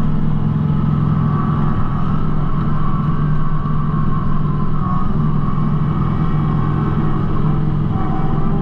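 Kubota B2650 compact tractor's three-cylinder diesel engine running steadily under work, with a fainter higher whine over the low engine hum.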